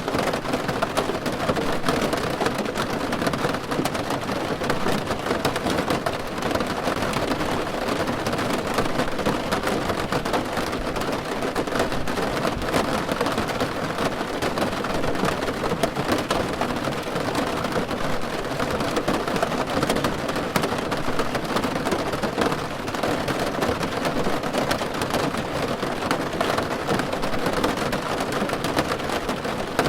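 Steady rain falling on a car's roof, heard from inside the car: a dense, even spread of drop impacts that keeps on without change.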